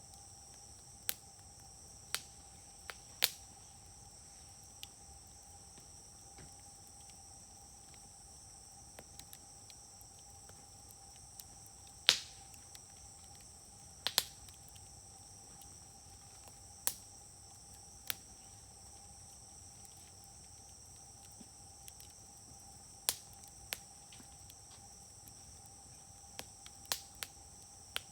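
Wood fire burning in a Uniflame fire grill, giving sharp isolated pops every few seconds, the loudest about twelve seconds in. A steady high-pitched insect trill runs underneath.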